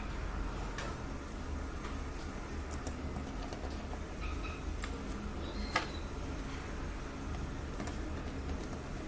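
Scattered light clicks and taps from handling small tools and parts during phone repair work, over a steady low hum. The sharpest click comes a little past the middle.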